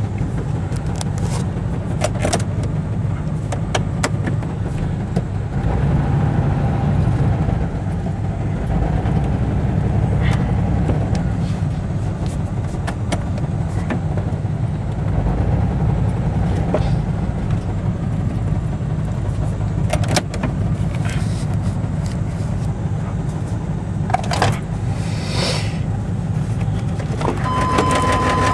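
1996 Chevy S-10 Blazer's 4.3-litre V6 running with a steady low exhaust drone, through a bad muffler, and scattered clicks and rattles.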